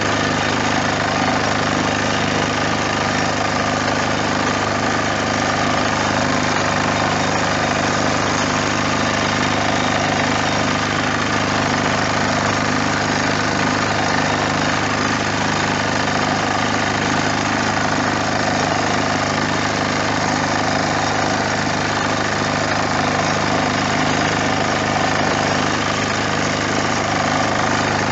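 Bertolini 402's diesel engine running steadily at an even speed.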